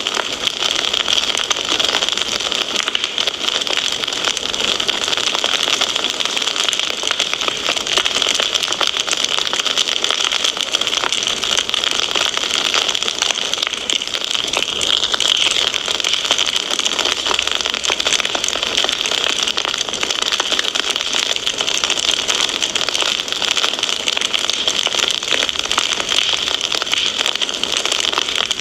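Wood fire crackling: a dense, steady hiss of many small pops and crackles with no single loud snap.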